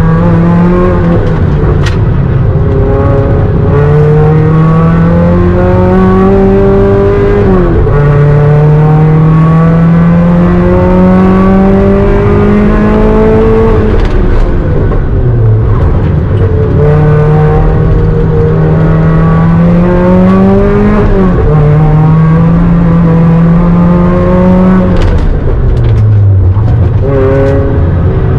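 Supercharged Mazda MX-5 NC engine driven hard on a sprint run. It climbs in pitch through each gear, with a sharp fall at every gear change or lift every few seconds.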